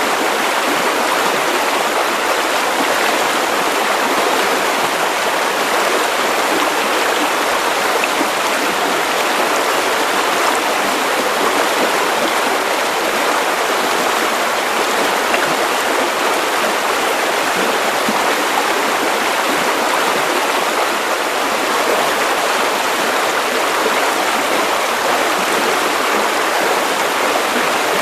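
Steady white noise for sleep: an even, unbroken hiss that sits in the middle and upper range with little bass and does not change.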